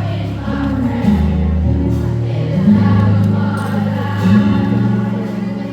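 Music with a choir singing: long held notes that change pitch in steps over a steady low bass line.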